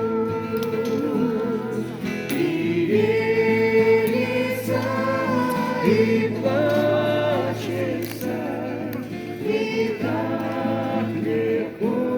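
A choir singing a slow Christian hymn, several voices holding long notes.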